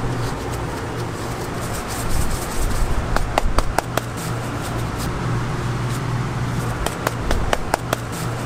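Steady low machine hum over an even background hiss, with scattered light clicks and taps of hand work, bunched about three seconds in and again near the end.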